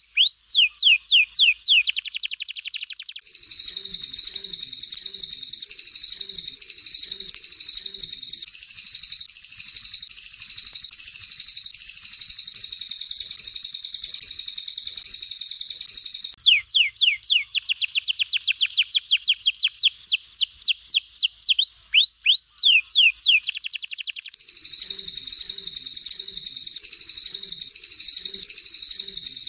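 Recorded songbird song of a canary (kenari) and a cililin. Rapid series of sharp, downward-sweeping whistle notes alternate with long stretches of dense, high-pitched rolling trill. The whistles open the passage, give way to the trill after about three seconds, return around the middle, then the trill takes over again near the end.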